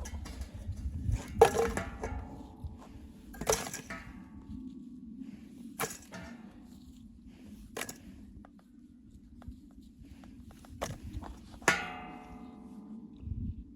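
A series of knocks and clinks. Three of them, about a second and a half in, about three and a half seconds in, and near the end, ring briefly like struck metal. A low steady rumble runs underneath.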